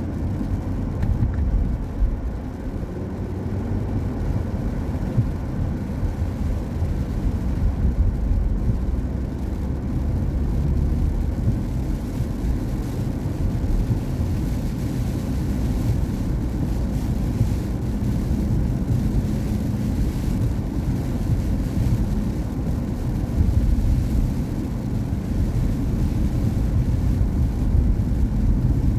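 Steady low rumble of a car driving, mostly road and tyre noise on wet pavement.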